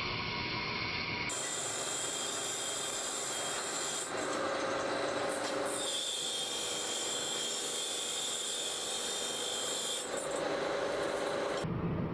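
Steady rasping and rubbing of metal being worked by tools, in a handful of short spliced takes that change in tone every few seconds.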